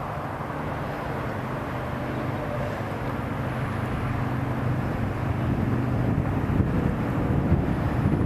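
A distant engine drone with a low hum, growing slowly louder, over a steady outdoor rush of noise.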